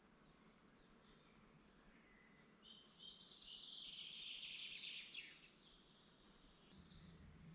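Faint woodland birdsong: scattered high chirps, then a rapid, dense song phrase from about two to five seconds in that is the loudest part. A faint low rumble comes in near the end.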